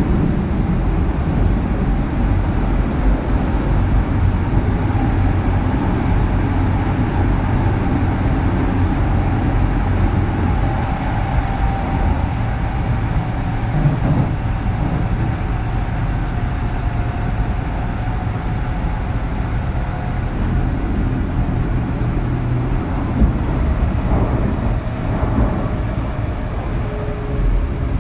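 Running noise inside a Kintetsu 3200 series motor car: a steady rumble of wheels and traction motors on the track. Over it, the whine of the car's early Mitsubishi GTO VVVF inverter sounds as a faint tone that slowly falls in pitch through the middle, with a stronger, lower tone near the end.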